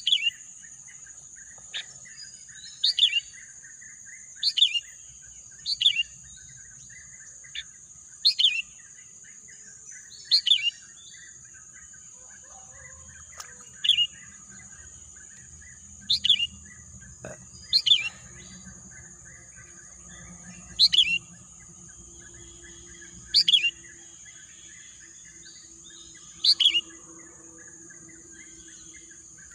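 Birdsong: one bird repeats a short, loud call that falls in pitch, about every two seconds, over softer twittering from other birds. A steady high-pitched insect drone runs underneath.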